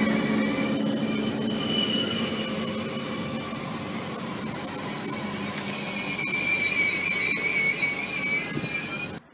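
SNCF regional electric train moving slowly alongside a station platform, its wheels squealing with several high, wavering tones over steady rail rumble. The sound cuts off abruptly near the end.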